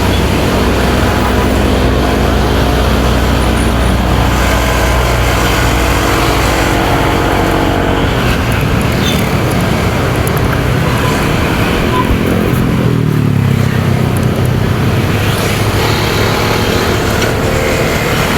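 A motorcycle engine running under way, with wind and road noise and surrounding traffic. The engine note drops about twelve seconds in as the bike slows, then holds steady.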